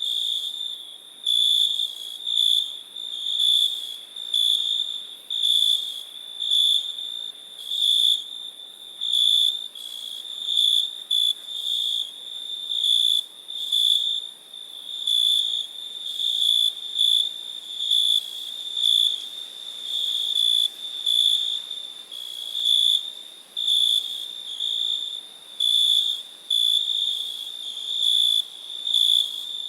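Crickets chirping, a single high pitch pulsing in a steady rhythm of about one to two chirps a second.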